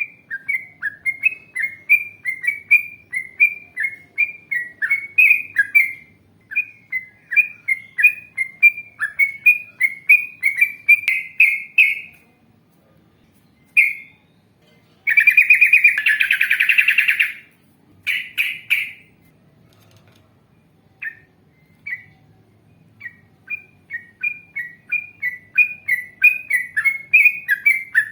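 Yellow-vented bulbul singing long fast runs of bubbly, chattering notes, about three a second. Past the middle comes a harsh, grating burst of about two seconds, and the note runs start again near the end.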